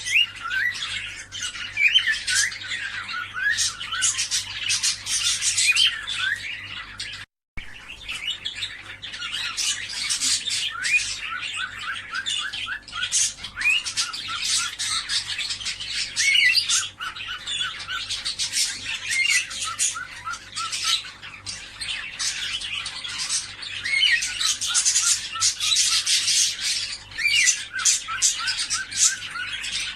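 A flock of cockatiels chirping and squawking continuously, many short calls overlapping, broken by a brief silent gap about seven seconds in.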